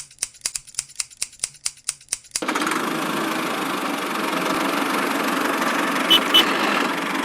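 Rapid, even clicking, about six clicks a second, stops about two and a half seconds in. A small motor then runs steadily, with two short clicks near the end.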